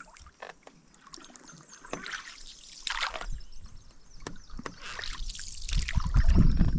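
Canoe paddle strokes in creek water: short splashes and drips off the paddle. A low rumble of wind on the microphone builds near the end.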